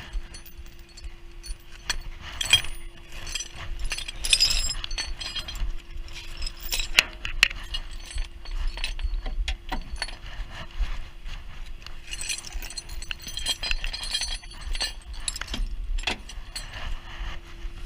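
Metal tow rigging, chain and hooks on the winch cable, clinking and jangling in repeated bursts as it is handled and hooked up, with a steady hum underneath.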